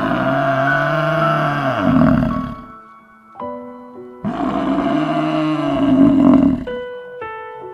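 Two long roars from a large animal, each about two and a half seconds, rising then falling in pitch, over soft piano-like background music.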